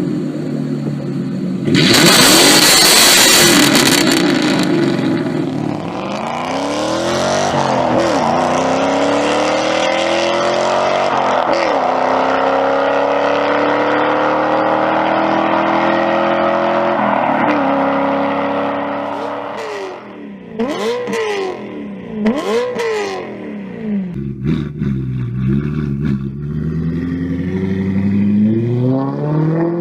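Straight-piped car engine at full throttle, its pitch climbing through the gears with short drops at the upshifts. Then come a few sharp rev blips, and a climb under load again near the end. A loud, harsh rasp comes about two seconds in and lasts a few seconds.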